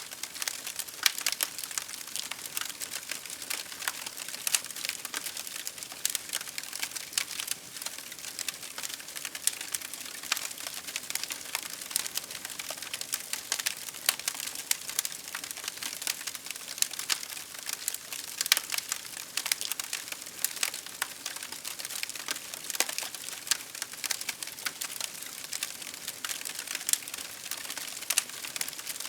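Wood fire crackling: dense, irregular sharp snaps and pops over a steady hiss.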